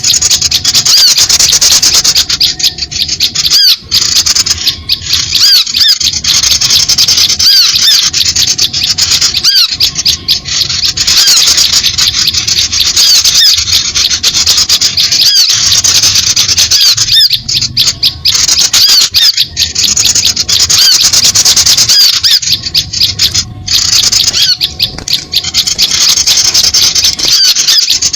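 Dense, continuous chattering of many small songbirds calling at once, a lure recording of rapid high chirps that overlap with hardly a gap.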